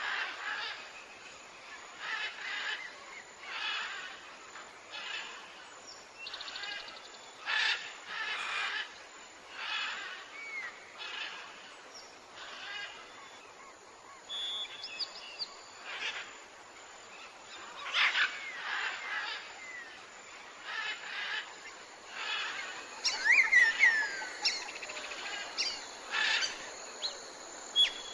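Birds calling: short calls repeated about once a second, with a brighter run of gliding chirps a little over 23 seconds in.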